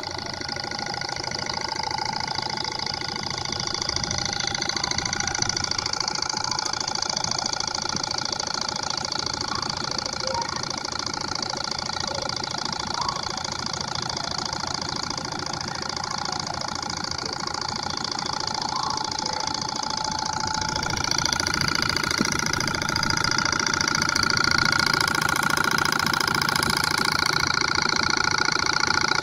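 Model Stirling engine running at speed: a steady, fast mechanical whirr with rapid ticking, which grows louder about three quarters of the way through.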